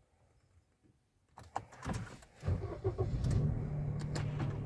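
Suzuki Wagon R Stingray's 660cc three-cylinder engine being started. A few clicks come about a second and a half in, then the engine cranks and catches about two and a half seconds in and settles into a steady idle.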